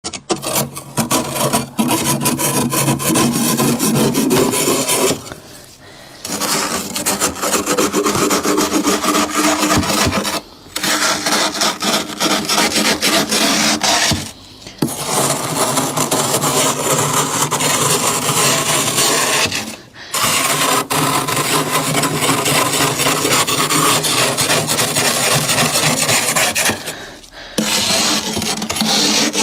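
Frost being scraped off the inside of a freezer: a loud, continuous raspy scraping, broken by short pauses every few seconds.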